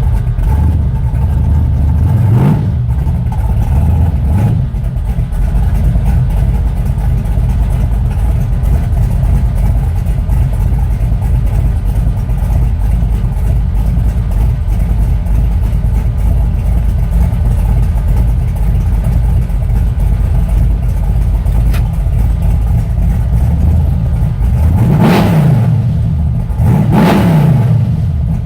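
468-cubic-inch big-block Chevrolet V8 with a solid-lifter camshaft idling and revved in quick blips, twice in the first five seconds and twice more near the end, dropping back to idle after each.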